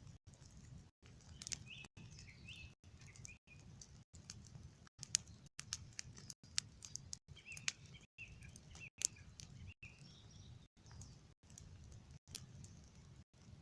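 Bonfire of raked debris burning down, crackling with scattered sharp pops, the loudest about halfway through and again near two-thirds of the way. Small birds chirp in two short bursts, near the start and past the middle.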